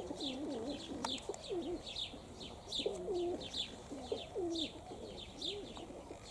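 Domestic pigeons cooing in repeated low, wavering phrases, with small birds chirping in quick high notes over them.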